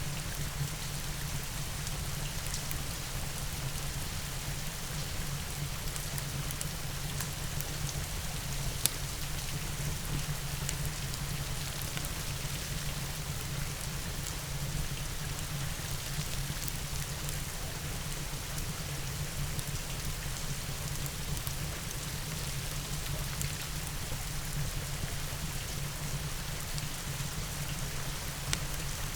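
Steady rain falling, mixed with a crackling wood fire: a constant hiss with a low rumble beneath it and scattered sharp pops, one louder pop about nine seconds in.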